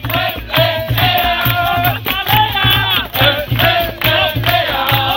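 Capoeira roda music: voices singing over a steady drum beat and rattling hand percussion.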